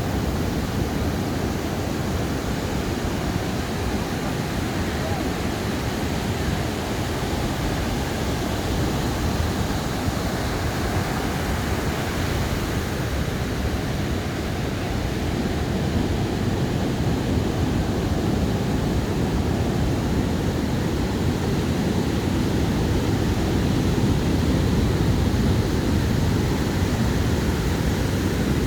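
Ocean surf washing onto a sandy beach: a steady, unbroken wash of noise, heaviest in the low end, swelling slightly in the second half.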